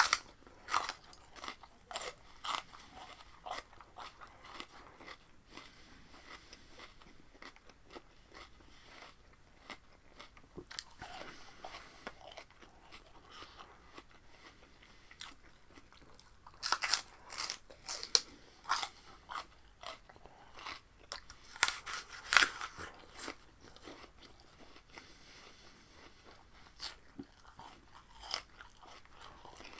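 Close-up crisp crunching and chewing of raw vegetables. Sharp bites come at the start and again in two louder bouts past the middle, with softer chewing in between.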